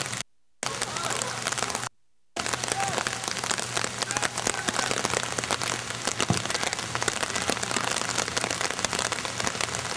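Rain pattering as a dense, steady crackle of drops, with a faint low hum underneath. The sound cuts out completely twice for a fraction of a second in the first few seconds.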